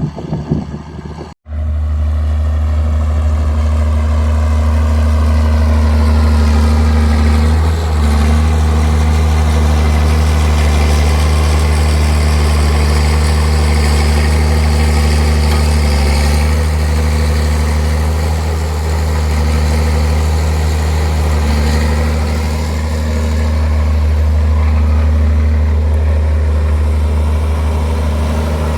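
Straight-piped six-cylinder turbo diesel of a John Deere 4630 tractor running steadily: a loud, deep, even drone. It starts after an abrupt break about a second and a half in.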